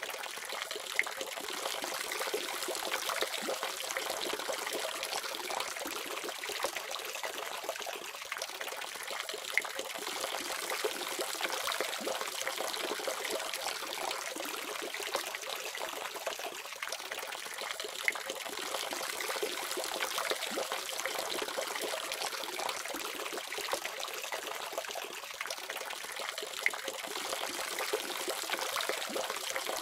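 Water running steadily from a faucet in an even, splashy trickle.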